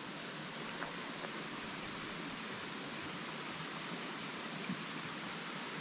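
Steady chorus of insects: a continuous high-pitched drone, with a fainter, higher chirp pulsing evenly above it.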